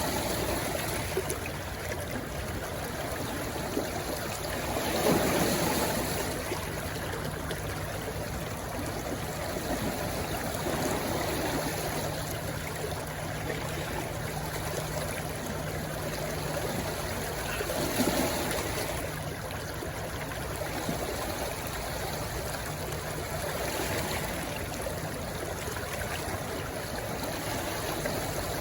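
Rushing stream water pouring into the sea, a steady wash with two louder surges about five and eighteen seconds in.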